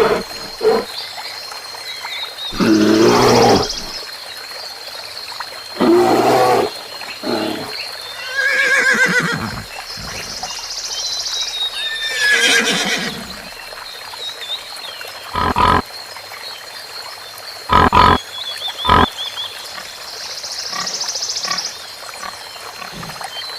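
A series of animal calls, about eight in all, a few seconds apart: some longer, wavering and pitched, others short and sharp, over a steady thin high tone.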